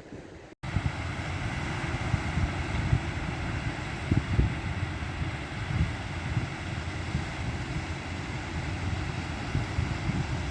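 Wind buffeting the microphone in uneven low gusts over a steady rushing noise, starting after a brief dropout about half a second in.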